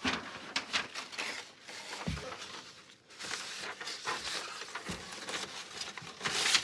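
Crafting materials being handled: irregular rustling, light taps and knocks.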